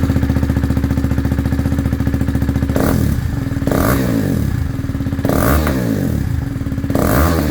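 KTM 390 Duke's single-cylinder engine idling through a Termignoni slip-on exhaust, with four short throttle blips in the second half, each rising and falling quickly.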